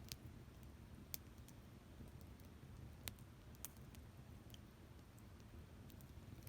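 Wood fire crackling: scattered sharp pops, about half a dozen over several seconds, with the loudest about a second in and about three seconds in, over a faint low rumble.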